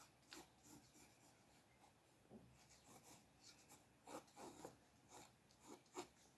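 Faint scratching of a drawing tool on paper: a run of quick, irregular short strokes, busiest in the second half.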